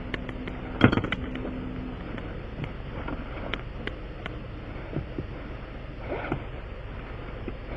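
Scattered clinks, knocks and scrapes of hand tools at work on a punctured tire, the loudest clank about a second in, over a steady low background rumble.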